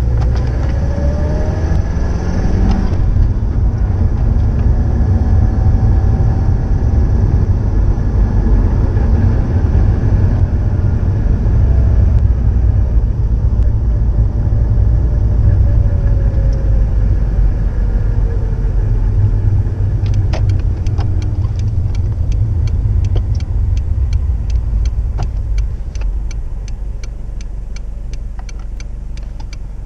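Subaru Impreza WRX STI (GDB) EJ20 boxer four-cylinder running through an STI Genome exhaust. Its low exhaust note holds steady, with a few slow rises and falls in pitch. About two-thirds of the way through, a fast regular ticking sets in, and the engine sound drops somewhat near the end.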